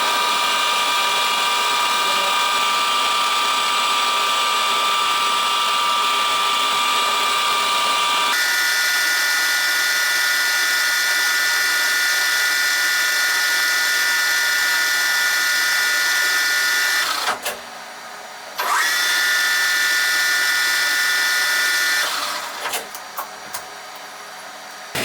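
Machine tool motor running with a steady high whine. Its pitch steps up about eight seconds in. It winds down and back up about seventeen to nineteen seconds in, then stops about twenty-two seconds in, with a few short bursts after.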